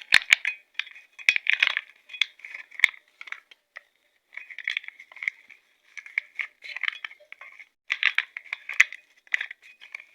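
Plastic film crinkling and small metal parts clicking in short, irregular bursts as a valve-spring lock (collet) on a motorcycle cylinder head is pressed into place by hand with a makeshift tool.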